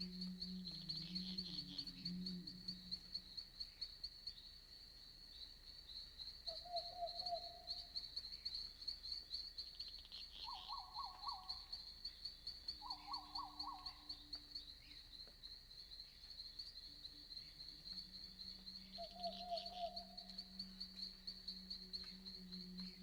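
Night forest ambience: a steady chirping chorus of crickets, with an owl's low drawn-out hooting near the start and again in the last few seconds. A few short trilled calls from frogs or birds come in between.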